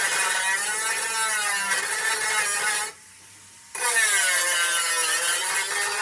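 A power tool whining with its pitch sagging and rising again, stopping for under a second about three seconds in, then running on.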